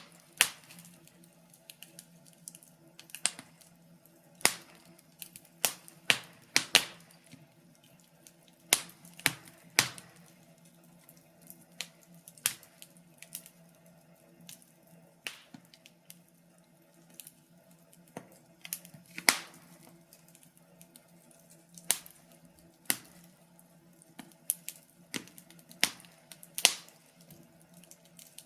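Wood fire crackling: sharp, irregular pops and snaps, about one a second and unevenly spaced, over a faint steady low hum.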